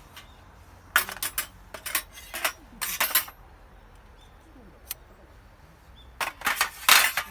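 Short, sharp metallic clinks and scrapes in two clusters, one starting about a second in and another near the end.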